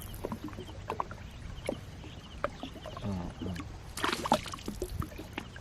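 Water splashing and sloshing around a small boat, with scattered knocks against the hull, as a gill net is hauled in by hand. A louder splash comes about four seconds in.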